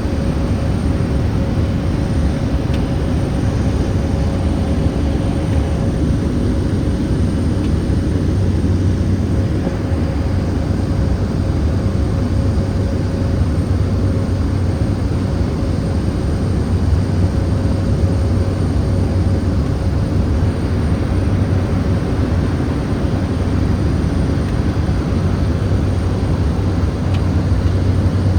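Cessna 208B Grand Caravan's single PT6A turboprop running steadily, heard inside the cabin: a deep, even propeller drone with a thin, steady high turbine whine above it.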